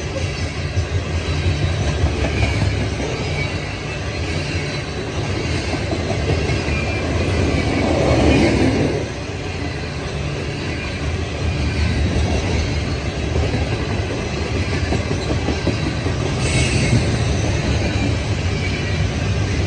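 Steel-wheeled coal hopper cars of a CSX freight train rolling past: a steady rumble and clatter of wheels on rail, with a faint high wheel squeal, briefly louder about eight seconds in.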